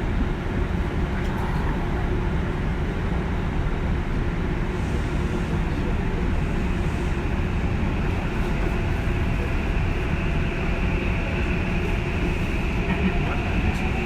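JR West 201 series electric commuter train running between stations, heard from inside the car: a steady rumble of wheels and motors on the rails, with a faint rising tone near the end.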